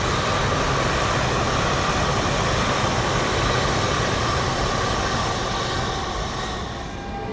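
A train running past on the track: a steady rush of wheel-and-rail noise with a faint ringing tone, dying away near the end.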